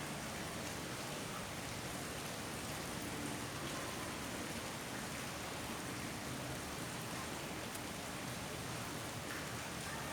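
Steady rain falling, with a constant hiss and faint scattered drop ticks.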